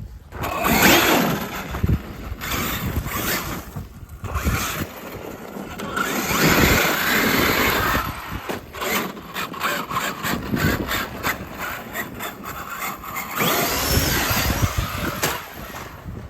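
Traxxas X-Maxx electric RC monster truck driving hard over rough ground: the brushless motor whining in surges as the throttle goes on and off, with tyres scrabbling and the chassis knocking.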